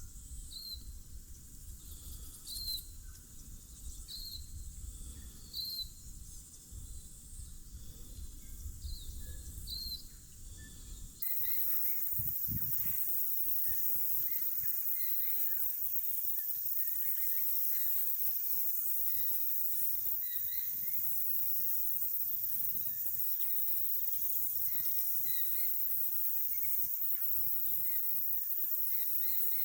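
Silvereyes (tauhou) giving short, high contact chirps about every second and a half over a low rumble. About eleven seconds in, the sound changes abruptly to a steady high hiss, with scattered chirps continuing.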